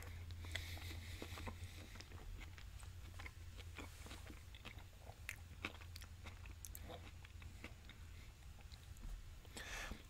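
A person chewing a mouthful of a beef power bowl: quiet, wet chewing with many small mouth clicks over a steady low hum.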